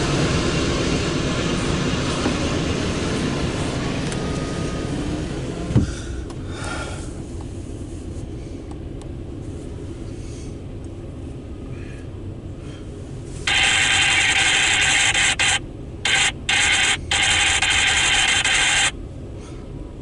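A loaded autorack freight train rolling past, a steady rumble of wheels and cars that fades over the first several seconds, with a sharp knock about six seconds in. Later a loud, high hiss starts suddenly, cuts out briefly three times, then stops.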